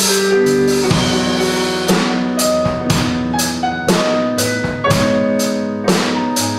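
Jazz trio playing: keyboard chords and bass notes held over a drum kit keeping steady time on the cymbals, with stronger drum accents about every two seconds.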